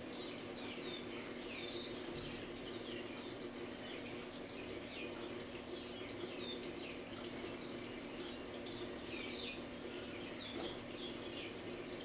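Small garden birds chirping, many short high chirps overlapping throughout, over a steady low hum.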